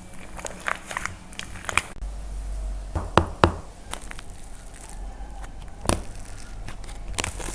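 Dried plaster clay being cracked and crumbled by hand: scattered crisp cracks and crunches, with the sharpest snaps about three seconds in and again near six seconds.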